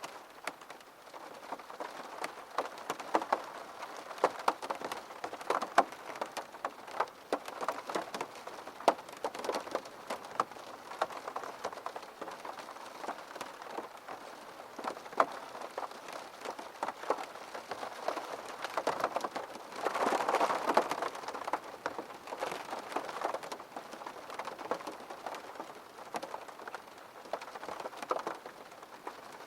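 Steady rain falling, with many separate drops ticking sharply over a constant patter. The rain swells briefly about two-thirds of the way through.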